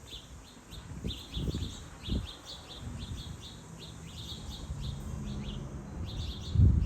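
Small songbirds chirping over and over, short quick notes with hardly a pause. Low rumbles on the microphone come and go beneath them, the loudest near the end.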